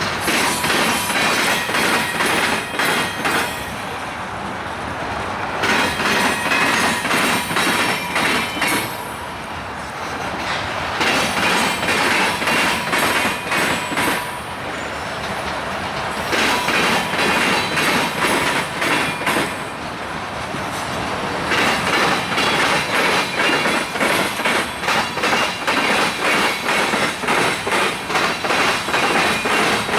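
Freight train cars rolling past, their wheels clattering over the rail joints in rhythmic spells of a few seconds with quieter gaps between, over a faint steady wheel squeal.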